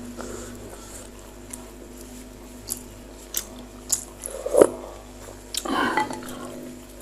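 Close-miked eating sounds of bakso meatballs: biting and chewing, with several sharp clicks and two louder noisy bursts in the middle and near the end.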